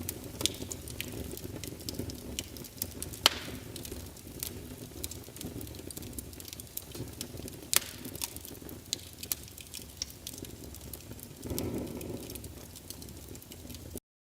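Wood fire in a fireplace crackling, with frequent sharp pops over a low steady rumble; it cuts off suddenly near the end.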